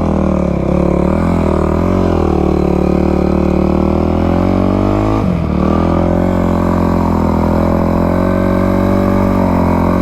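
Dirt bike engine running under throttle while riding on sand, its note wavering up and down, briefly dropping out about five seconds in, then climbing steadily.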